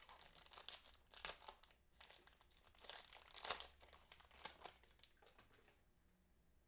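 Plastic trading-card pack wrappers being torn open and crumpled by hand, a dense crinkling that stops near the end.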